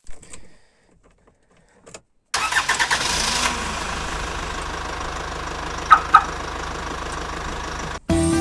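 A car engine starts with a sudden burst about two seconds in, then keeps running steadily. Two short, high beeps come near the middle.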